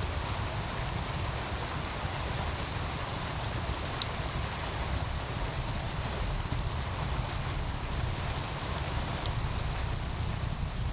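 Wood fire crackling with scattered sharp pops, one louder pop about four seconds in, over the steady rushing of a meltwater stream and a low rumble underneath.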